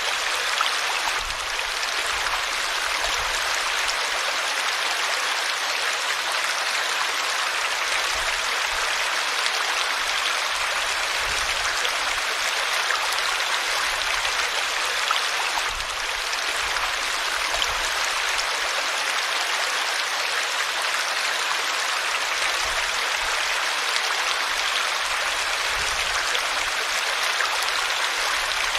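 River water flowing steadily: an even, unbroken noise.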